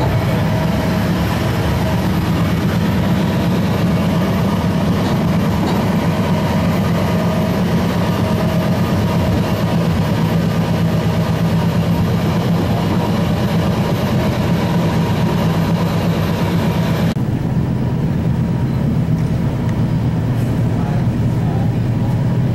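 Steady rumble and low hum inside a passenger train car, the noise of the train's running and on-board equipment. The upper hiss drops away sharply about three-quarters of the way through while the low hum carries on.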